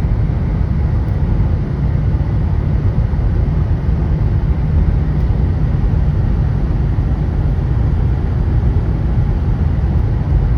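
Steady low rumble of a car on the road, heard from inside the moving vehicle, with an even hiss of road and wind noise.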